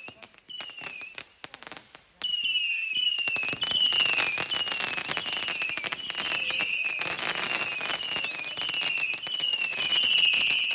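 Fireworks crackling in a dense rapid string of pops, much louder from about two seconds in. Over the crackle a short falling whistle-like tone repeats about twice a second.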